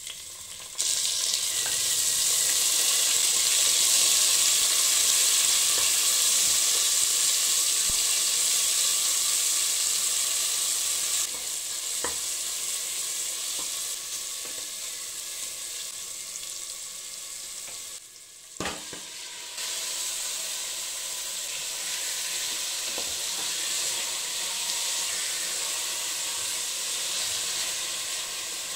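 Chopped tomato and then spiced chicken pieces sizzling in hot oil in a pressure cooker pot, stirred now and then with a spatula. The sizzle jumps up about a second in, eases somewhat about a third of the way through, and breaks off briefly with a click about two-thirds through before carrying on.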